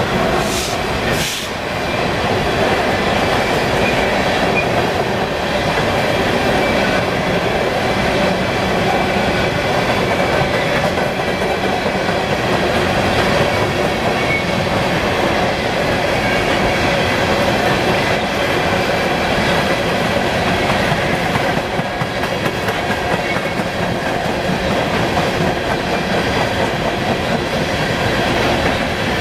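Freight train rolling past close by, a steady rumble of wheels on rail with rhythmic clickety-clack from the cars.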